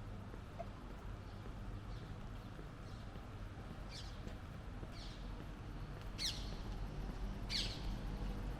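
A bird calling four times, each call a short high note sweeping sharply down in pitch, the later two loudest, over a steady low hum of distant traffic.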